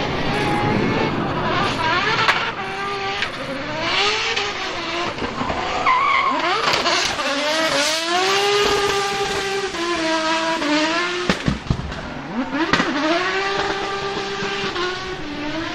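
2JZ-swapped Toyota Supra MK5 drifting: its straight-six engine revs up and down again and again, with the tyres squealing.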